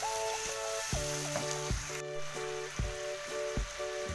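Chicken livers and gizzards in a spice sauce sizzling in a frying pan while being stirred with a silicone spatula, over background music with a steady beat.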